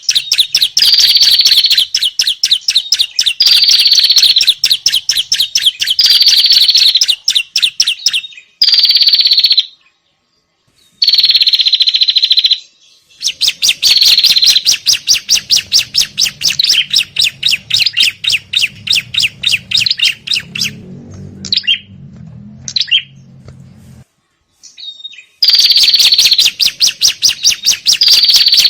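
Agitated prenjak and ciblek (prinia) alarm chatter played as a bird lure: long trains of rapid, high, scolding notes, about ten a second, broken by a few short pauses.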